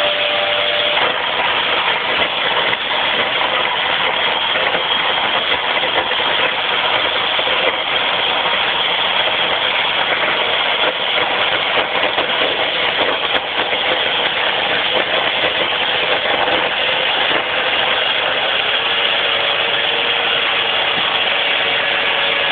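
Chainsaw running steadily under load as it cuts through a firewood log.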